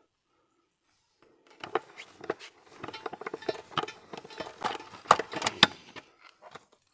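Irregular clicks, knocks and light rattles of hands handling tools and fittings, starting about a second in after a brief silence.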